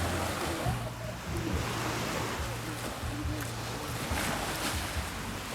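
Surf washing onto a sandy beach, a steady rushing wash, with wind rumbling on the microphone.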